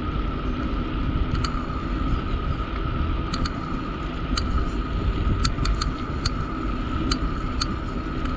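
Wind and road rumble on a bicycle-mounted camera during a ride, with a steady hum and scattered sharp clicks, a few a second at most.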